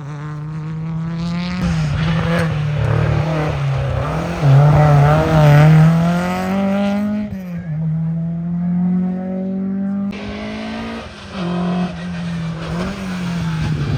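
Classic rally car engines under hard acceleration, the engine note climbing and falling back sharply several times as the cars rev through the gears.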